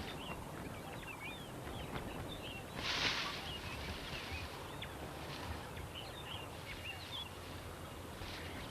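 Outdoor savanna ambience with small birds chirping repeatedly, and a short, louder noisy burst about three seconds in.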